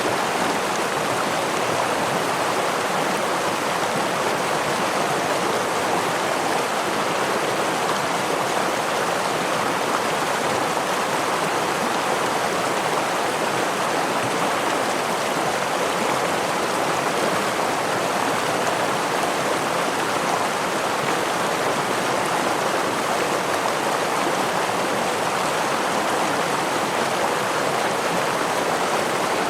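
Steady rushing of a forest stream over a small waterfall, an even, unbroken water sound with no single splashes standing out.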